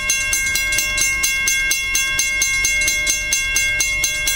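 CSX freight train going by, with a rapid, even clicking of about four strokes a second over steady high ringing tones.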